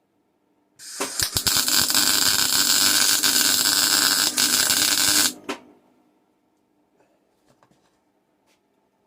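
MIG welding arc on angle iron, a steady crackling hiss that starts with a few sharp pops about a second in and cuts off suddenly after four and a half seconds, as the bracket is tack-welded. A few faint ticks follow.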